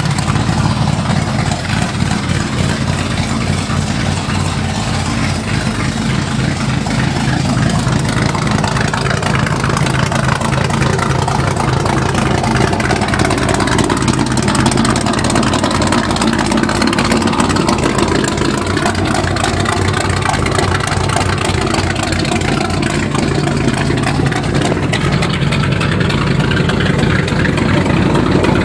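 Bored-out Chevy 350 small-block V8 in a 1980 Chevy mud truck running at a steady idle.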